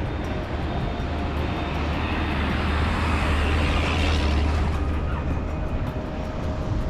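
Steady low engine hum and road noise of a vehicle travelling along a road. A rushing noise swells and fades about halfway through.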